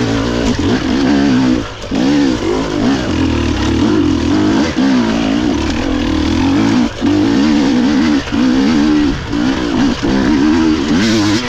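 GASGAS EC250 single-cylinder two-stroke enduro engine heard on board, revving up and down constantly as the rider works the throttle on a steep, technical single-track climb. There are several short drops where the throttle is shut off.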